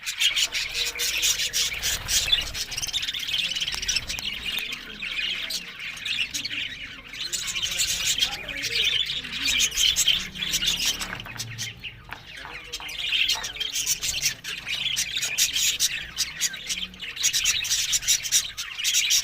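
Budgerigars chattering and squawking without pause, a dense mix of warbling and sharp chirps with a brief lull about twelve seconds in.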